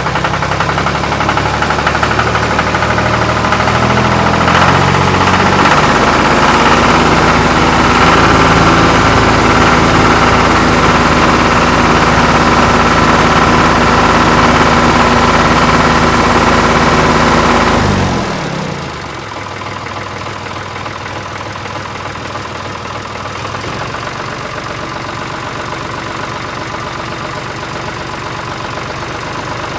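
Tractor engine running hard: the revs rise a few seconds in and hold high and steady, then drop sharply back to a lower idle about two-thirds of the way through.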